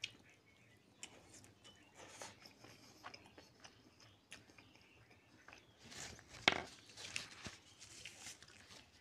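Close-miked chewing and wet lip-smacking of a mouthful of rice and chicken curry, with scattered small mouth clicks and a louder wet mouth sound about six and a half seconds in.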